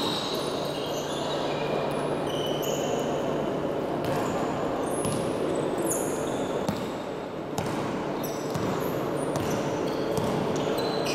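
Basketball game sounds on an indoor court: the ball bouncing, with repeated short, high sneaker squeaks on the floor over a steady background of crowd and players' voices.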